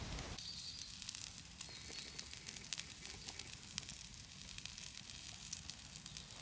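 Wood fire crackling faintly, with many scattered small pops.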